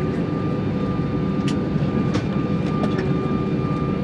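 Steady cabin rumble and engine hum inside an Airbus A320 rolling on the ground, with a few sharp clicks and rattles from the cabin.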